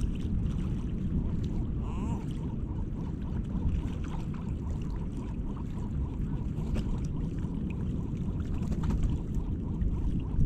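Wind buffeting the microphone as a steady low rumble, over water with scattered light splashes and ticks.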